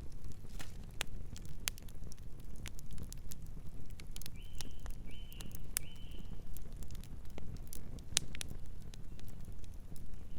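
Campfire crackling, with many sharp irregular pops over a steady low rumble. Three short high bird chirps come in quick succession around the middle.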